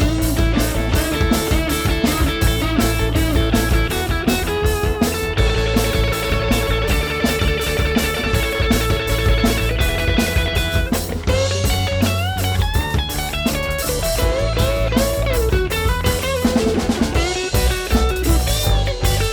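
Instrumental rock music: electric guitar playing a lead line with bends over a steady drum-kit beat and bass.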